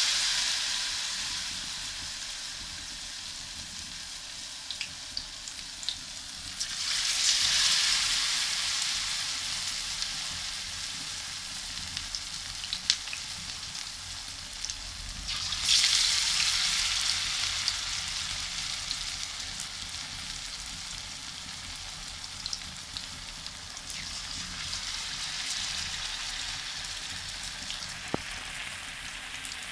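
Battered eggplant slices deep-frying in hot oil in a karahi: a steady sizzle with small scattered pops. Twice, about seven and fifteen seconds in, the sizzle swells sharply as more battered slices go into the oil, then dies back.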